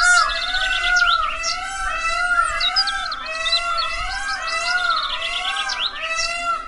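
Many birds chirping and calling in quick repeated phrases, about two a second, with sharp high chirps over them, against background music.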